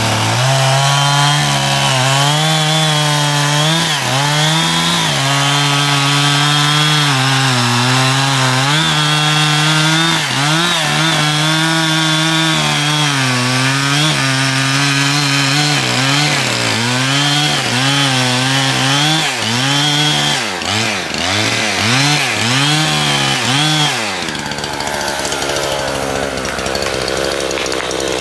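Two-stroke chainsaw running at high revs, its pitch dipping and recovering again and again as if under cutting load. About 20 s in it is revved rapidly up and down several times, and about 24 s in the engine note drops away into a quieter, rougher sound.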